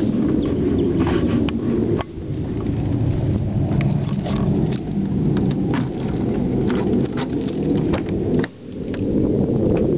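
Honda Accord CB9's four-cylinder engine running, heard close as a loud, steady low rumble with scattered clicks and ticks; the owner is trying to show a high-pitched noise from the motor, but no steady whine stands out here.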